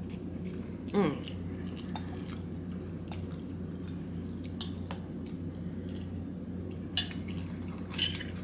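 Someone chewing a mouthful of pasta, with a few light clicks of a metal fork against a glass bowl and the bowl being scraped near the end. There is a short murmur from the eater about a second in, over a steady low hum.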